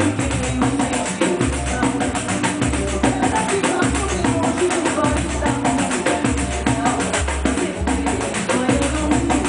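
Pandeiro played in a fast, even samba rhythm over a samba recording with bass and singing.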